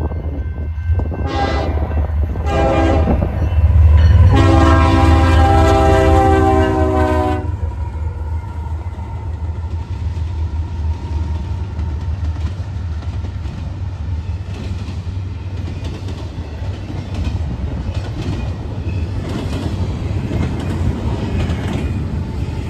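BNSF intermodal freight train's locomotive air horn sounding two short blasts and then a long one, over the heavy rumble of the passing train. After the horn stops, the rumble and the clatter of wheels over rail joints go on steadily.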